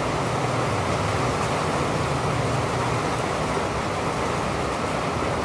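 Steady rain falling, an even hiss with faint ticks of single drops and no thunder.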